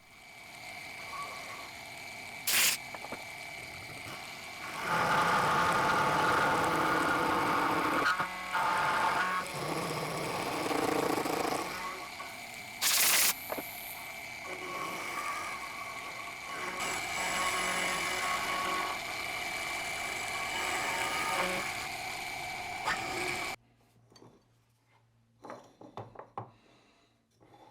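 Milling machine running with a steady high whine while its end mill bit cuts into a hardwood plane billet, the cutting noise growing louder in stretches, with two sharp clicks. The machine sound stops abruptly about 23 seconds in, leaving faint knocks.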